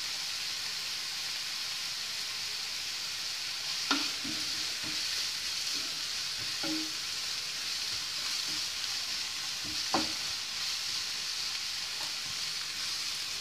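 Sliced onions, ginger and green chillies sizzling steadily in hot oil in a frying pan as they are sautéed and stirred with a wooden spatula. The spatula knocks against the pan about four seconds in and again near ten seconds, with a few fainter scrapes between.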